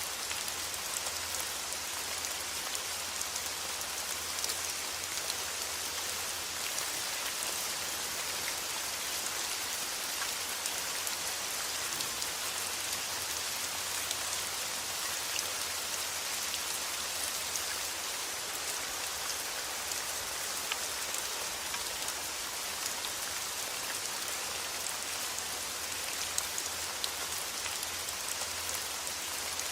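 Steady rain falling, a dense even hiss with scattered sharper ticks of single drops.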